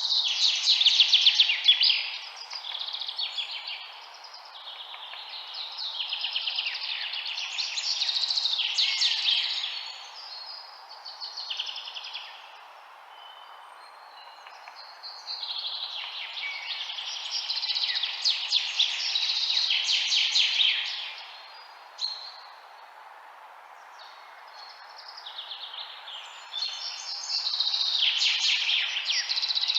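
Birds chirping and trilling in bouts of rapid, high notes a few seconds long, with quieter gaps between, over a steady background hiss.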